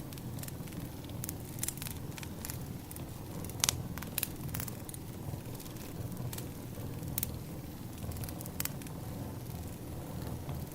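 Wood fire burning, with a steady low rumble and irregular sharp crackles and pops of the burning logs, the loudest pair of pops a little past a third of the way in.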